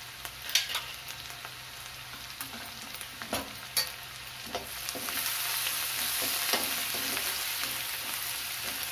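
Chopped onions, ginger, garlic and green chillies sizzling in hot oil in a metal kadhai. A spatula scrapes and taps against the pan now and then as they are stirred. The sizzle grows louder about five seconds in.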